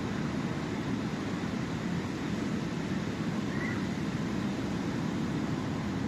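Sea waves washing on the shore in a steady, unbroken rush.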